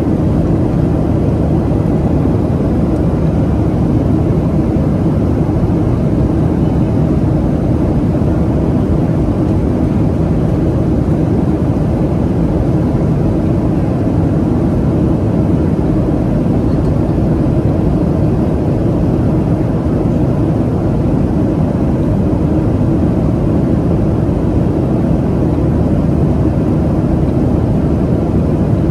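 Boeing 737-700 cabin noise: the steady drone of the jet engines and rushing air heard from inside the passenger cabin, deep and even with no change.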